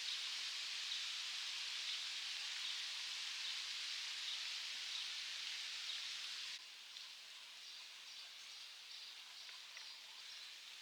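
Steady outdoor hiss of ambience that drops abruptly to a quieter level about two-thirds of the way through, after which faint short chirps repeat several times a second.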